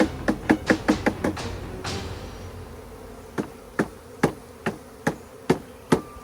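Sharp knocks of a bee package box being banged to shake the last bees out into the hive: a quick run of about seven knocks in the first second and a half, then about seven more about half a second apart. Russian honeybees buzz underneath.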